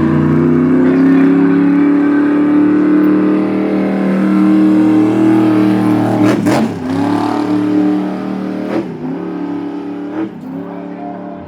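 A vehicle engine run hard at high throttle, its pitch climbing, then dropping sharply and climbing again three times, about six and a half, nine and ten seconds in. A short sharp crack comes with the first drop.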